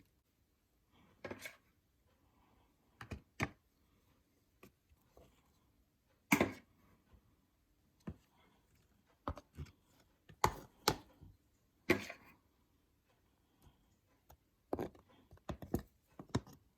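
Scattered short clicks and knocks of hands handling dishes and food while a mango float is assembled, with short quiet gaps between them.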